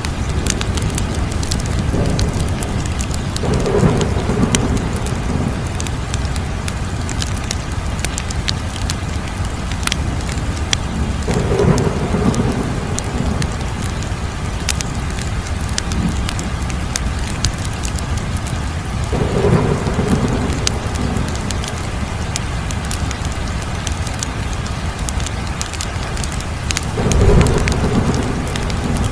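Wood fire crackling, with dense sharp pops and snaps over a steady low rushing of the flames. A deeper whooshing swell comes about every eight seconds.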